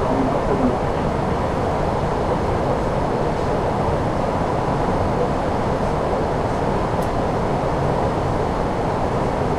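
Steady rushing noise on the flight deck of an Airbus A340-600 in flight on approach: airflow and engine noise heard from inside the cockpit, even and unbroken.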